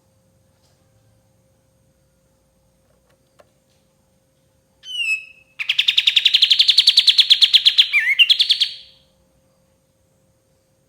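Kapas tembak songbird singing: a short falling whistle, then a fast, even trill of about eight notes a second that lasts some three seconds.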